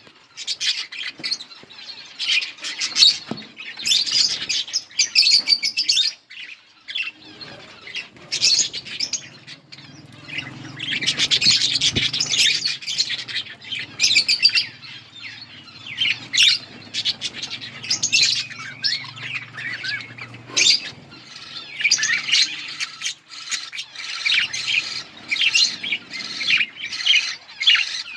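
Several budgerigars chattering continuously, a dense stream of rapid overlapping chirps, warbles and squawks.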